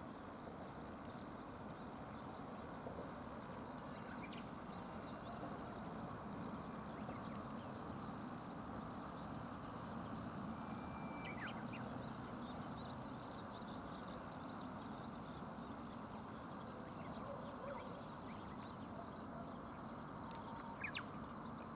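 Steady low outdoor rush, with a few faint, brief bird calls scattered through it and one short whistled note about halfway.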